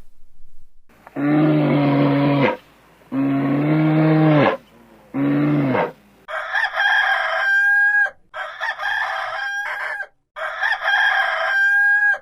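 A rooster crowing three times in the second half. Before that, a deeper farm animal gives three shorter calls that drop in pitch at the end.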